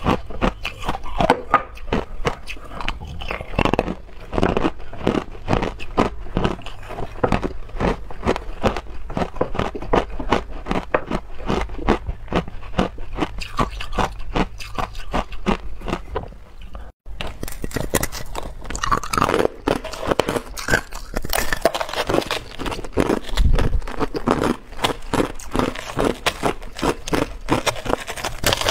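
Hard clear ice being bitten and chewed close to the mouth: dense, irregular crunching and cracking. There is a split-second break about two-thirds of the way through, after which the crunches sound brighter.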